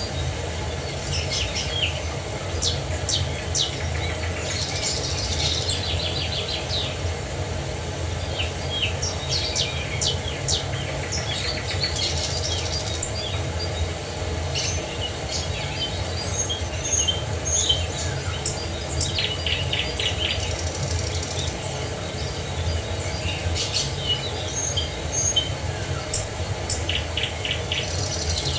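Steady low rumble of a waterfall's rushing water, with birds chirping and trilling over it throughout.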